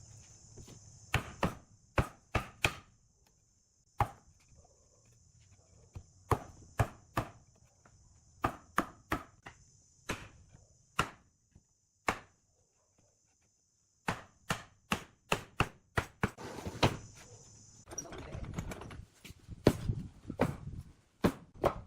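Wood being struck by a hand tool in woodworking: sharp knocks, singly and in quick runs of two to four, with short pauses between runs. A steady high hiss runs beneath and stops about 18 seconds in.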